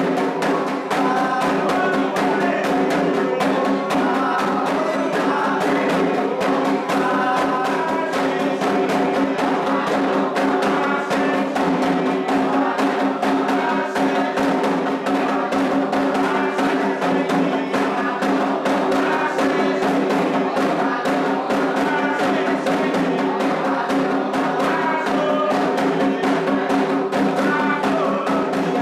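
Candomblé atabaque drums playing the rum, the dance toque for the orixá Ewá, with a steady run of drum strokes under a group singing the chant.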